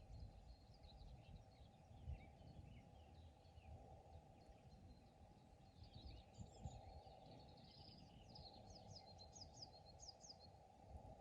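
Faint songbird chirps and trills from several birds, with a quick run of high descending notes near the end, over a low steady background rumble.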